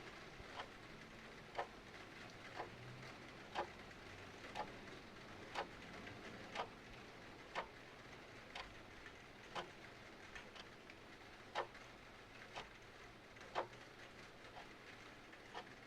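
A clock ticking evenly, about once a second, over a soft steady hiss of rain.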